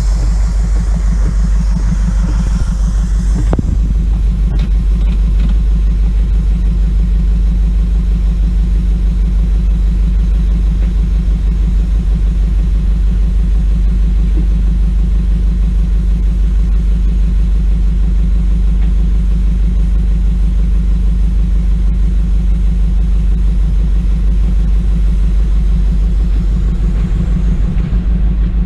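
Pickup truck's engine running steadily, a loud low rumble heard from inside the cab. A hiss over it stops a few seconds in.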